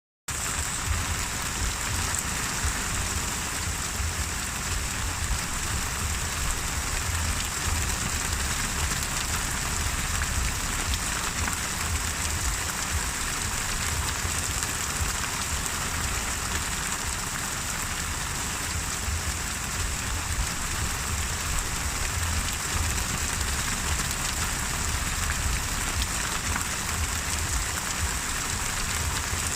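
Steady, even rain falling on a surface, with a low rumble underneath, starting abruptly at the very start.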